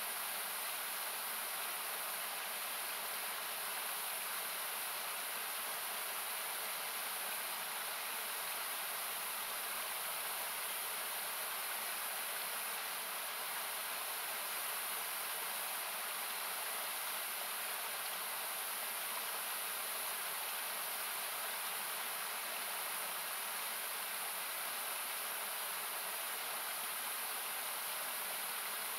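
Steady rushing of a river, heard as an even, hiss-like noise with its low end thinned by equalisation.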